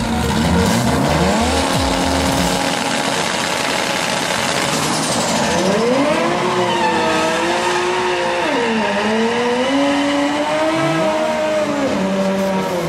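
Nissan GT-R engine revved hard on the start line: the revs rise in the first couple of seconds, then are held high with the pitch swinging up and down while the rear tyres spin in a smoky burnout.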